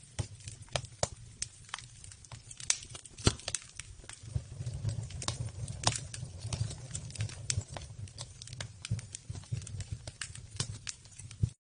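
Campfire crackling: irregular sharp pops and snaps, several a second, over a low rumble.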